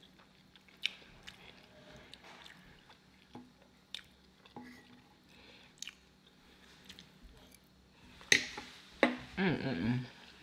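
Close-up chewing and wet mouth sounds of someone eating soft salmon, with scattered small clicks. Near the end come a louder smack and a brief hummed "mm".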